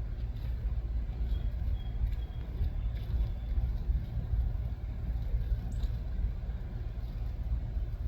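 Steady low outdoor rumble, with a few faint, short high notes about a second in and another faint high note near six seconds.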